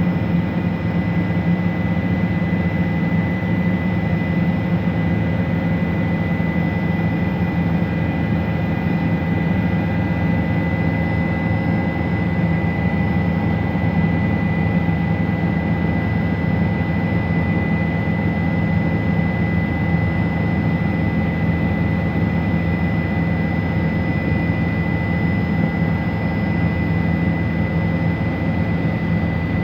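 Helicopter in flight: a steady, even engine and rotor drone with a thin high whine running above it.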